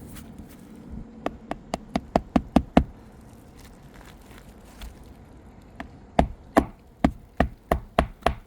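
Hammer driving a roofing nail into a replacement asphalt shingle. It starts with a run of quick taps, about five a second, that grow louder. After a pause comes a second run of harder, slower blows, about two and a half a second.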